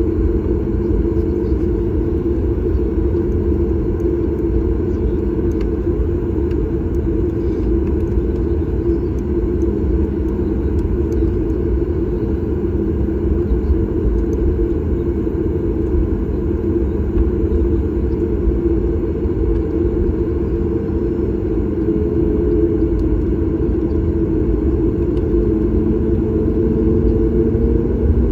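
Boeing 737 MAX 8's CFM LEAP-1B jet engines heard from inside the cabin: a steady rumble and hum, with one tone stepping up slightly in pitch near the end.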